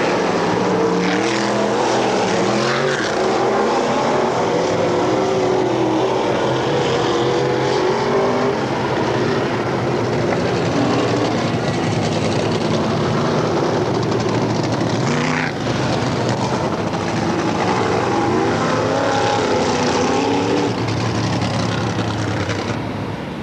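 Several dirt-track race car engines running at racing speed, their pitch rising and falling as the cars accelerate and lift around the oval.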